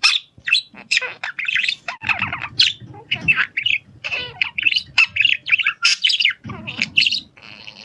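Parrots chirping and squawking in a rapid run of short, high calls.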